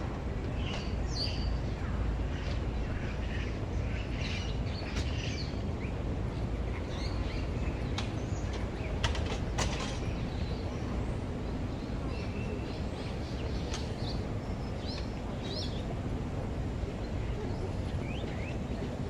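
Many short bird chirps and calls scattered over a steady low rumble, with a few sharp clicks about halfway through.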